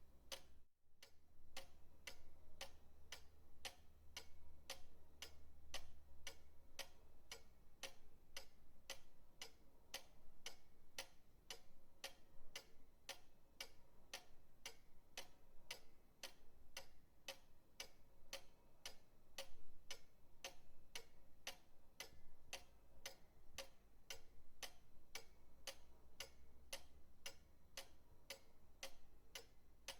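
Pendulum clock ticking steadily, about two ticks a second, with a momentary dropout just under a second in.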